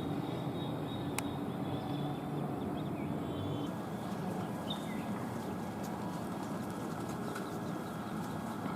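Steady outdoor background noise with a few faint, short bird chirps. The background shifts abruptly about four seconds in.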